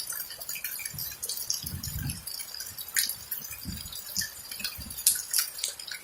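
Steady rain with water dripping, irregular sharp drip taps over a light hiss; the loudest taps come about three and five seconds in. Short low, dull thuds are mixed in.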